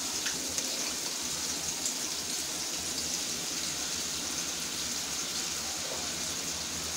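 Onions and spices sizzling steadily in hot oil in a frying pan on a gas stove.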